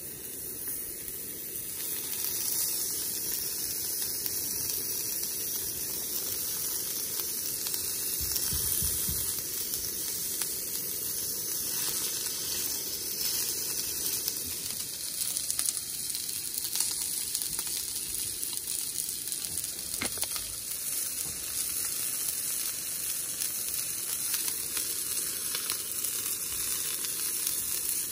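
Food sizzling as it fries in a pan: a steady hiss with fine crackles.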